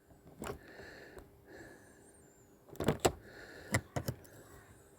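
Model train running on its track: a few light, irregular clicks and knocks, the loudest in two pairs about three and four seconds in, over a faint steady whine.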